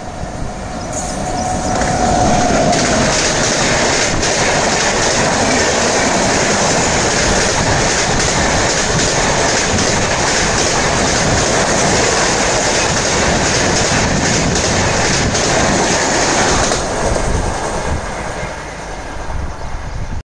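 Express train behind a WAP7 electric locomotive passing at high speed. A steady whine in the first two seconds builds into a loud rush of wheels on rail, with rapid clickety-clack as the coaches cross rail joints. The sound drops off about 17 seconds in as the last coach goes by.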